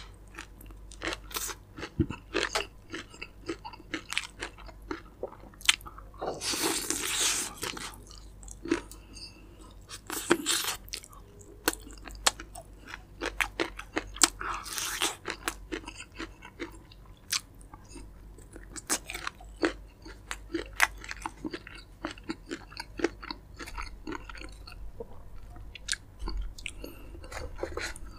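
Close-miked chewing of crispy fried chicken: many sharp crackles of the coated skin, with a few longer bursts of loud crunching.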